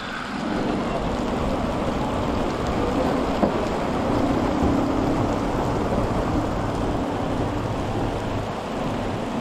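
Steady rain falling, a continuous even hiss of raindrops on surfaces.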